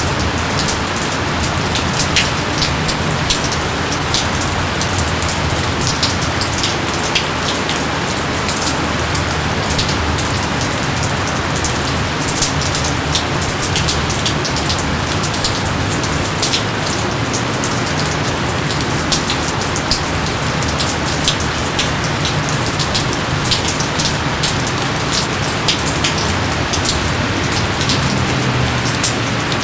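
Steady rain falling, an even hiss with many separate drops striking close by.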